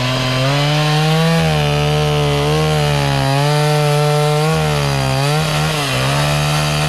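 Two-stroke chainsaw revved up and held at high speed, with a brief dip in revs about five and a half seconds in before it picks back up.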